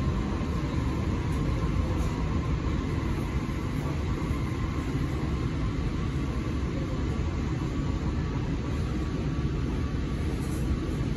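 Tobu 60000 series electric train, heard from inside the carriage, rolling slowly into a station platform and coming to a stop: a steady low running rumble.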